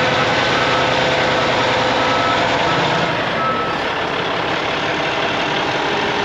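Heavy diesel truck engine running loud and steady, with a faint intermittent beeping over it in the first few seconds.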